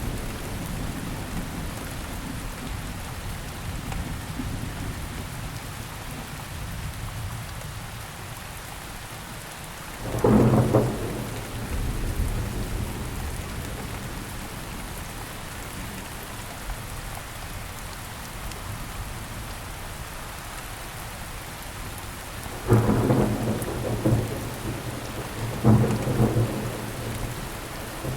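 Steady rain falling, broken by three thunderclaps that rumble low and fade over a second or two: one about ten seconds in and two close together near the end.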